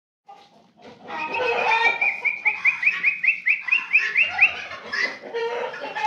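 Birds calling, with a run of short, quickly repeated rising calls, about four a second, for nearly three seconds.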